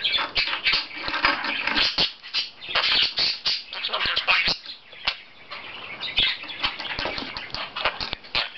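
Budgerigar chattering and squawking almost without pause, a scratchy warble, broken by many sharp clicks and taps.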